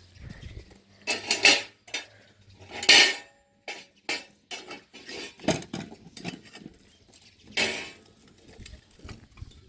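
Kitchen pots, dishes and metal utensils clattering: irregular knocks and scrapes, with louder clanks about a second and a half, three seconds and nearly eight seconds in.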